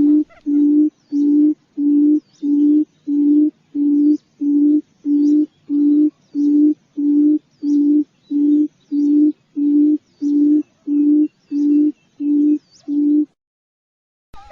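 Quail lure call: a low hooting note repeated evenly about twice a second, stopping abruptly about a second before the end.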